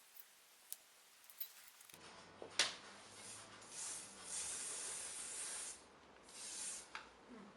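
Aerosol spray can sprayed in three bursts of hiss, the middle one about two seconds long, after a sharp click.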